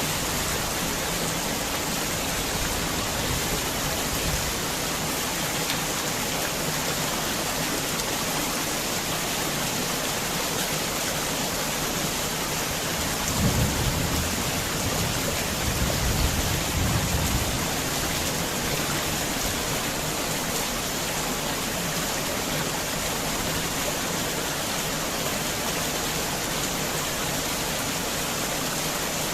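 Heavy rain falling steadily, with a low rumble of thunder swelling twice about halfway through.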